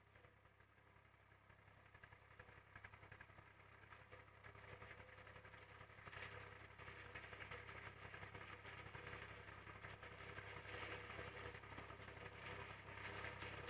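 IMT 539 tractor's diesel engine running with the corn harvester working. It is faint at first and grows steadily louder, with a rougher, noisier sound building from about halfway through.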